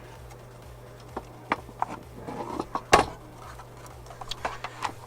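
Light plastic clicks and rattles as wiring connectors are handled and plugged together, with one sharper knock about three seconds in, over a steady low hum.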